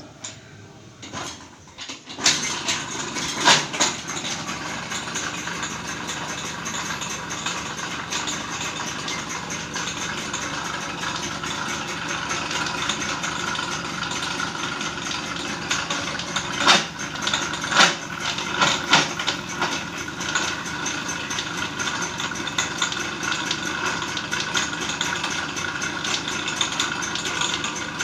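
TVS XL Super moped engine starting about two seconds in and then running steadily with a clutch noise, a few sharp knocks among it, which the mechanic puts down to the clutch having run with no oil.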